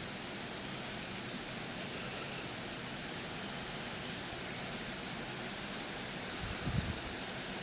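Steady hiss of rain in a storm, with a brief low thump about six and a half seconds in.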